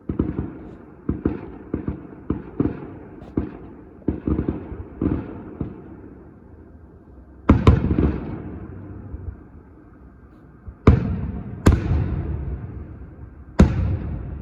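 Fireworks going off: a quick, irregular string of smaller bangs for the first six seconds or so. Then four louder booming bangs, about halfway in, twice close together near eleven to twelve seconds, and once more near the end, each echoing away.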